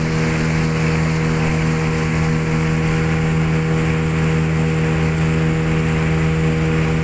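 Motorboat engine running steadily under way, one constant hum with a steady hiss over it.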